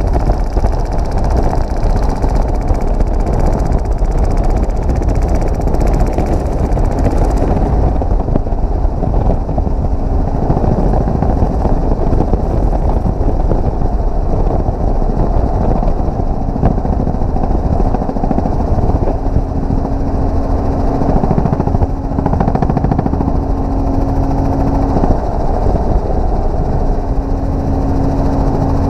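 Helicopter in flight heard from inside the cabin: loud, steady rotor and engine noise. From about ten seconds in, a steady hum comes and goes over it.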